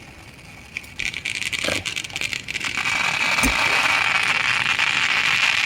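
Fireworks crackling: scattered sharp crackles start about a second in and build into a loud, dense, steady crackling hiss from about three seconds in, with a couple of dull low thumps.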